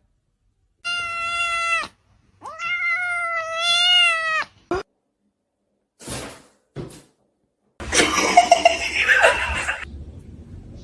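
A house cat meowing twice: a short call about a second in, then a longer drawn-out one. A few brief scuffs follow, and a loud noisy rustling burst comes near the end.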